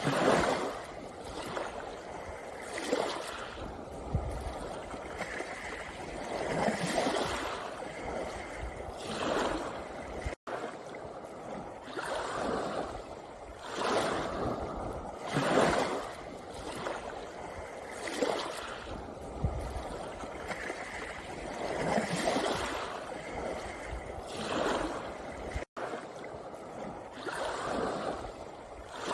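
Sea waves washing in over a pebble beach, in repeated surges every two to four seconds. The sound cuts out for an instant twice.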